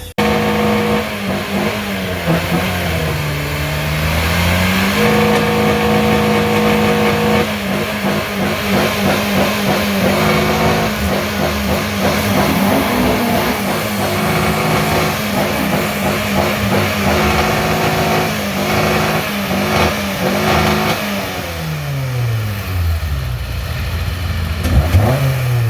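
Car engine held at high revs. Its pitch dips and climbs back a few seconds in, then stays steady for a long stretch. Near the end the revs fall away, followed by a short blip.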